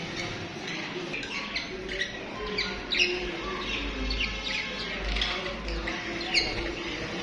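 Budgerigars chirping and chattering: a dense, busy run of short, quick chirps, with a couple of louder sharp chirps about three seconds in and near the end.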